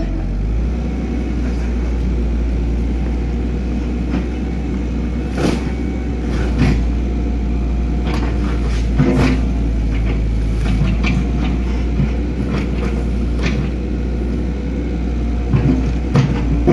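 Excavator's diesel engine running steadily at work, with scattered sharp knocks and clanks, more of them near the end.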